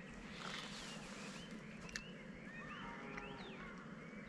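Small birds chirping, many short rising and falling whistled calls overlapping. There is a single sharp click about two seconds in.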